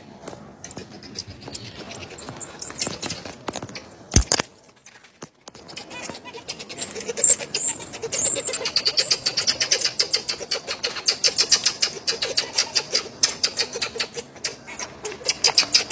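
Marmosets calling: rapid high-pitched chirps and twitters, with a run of short whistled notes, the loudest, about halfway through. A single sharp click about four seconds in, then a short gap.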